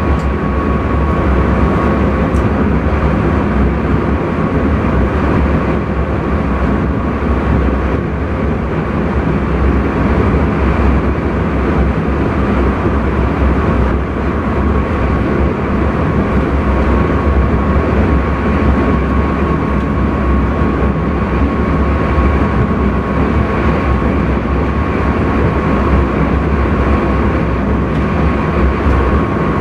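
Intercity train running steadily, heard from inside the driver's cab: a dense, even running rumble with a thin whine held on one pitch above it.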